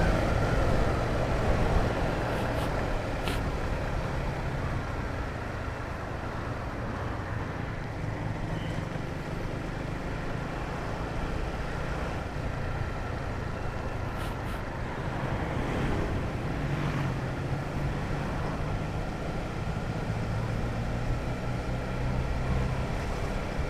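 Honda CBR150R motorcycle's single-cylinder engine running steadily while riding, its note shifting a little in pitch, under road and traffic noise.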